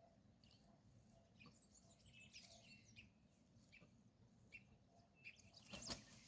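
Near silence with faint, scattered short bird chirps and a low background hiss; a sharp click near the end.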